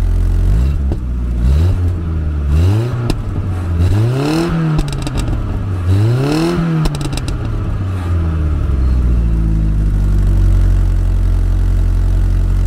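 1984 BMW 318i's four-cylinder engine being blipped repeatedly, with two higher revs about four and six seconds in, burbling and popping as the revs drop, then settling back to a steady idle.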